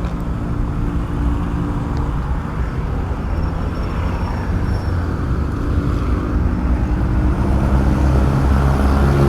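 Motorcycle engine running steadily among road traffic noise, getting louder over the last couple of seconds.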